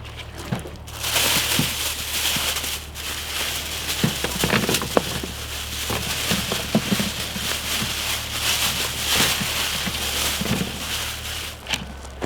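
A bag of potatoes being handled: rustling and crinkling with scattered small knocks, starting about a second in and lasting around ten seconds.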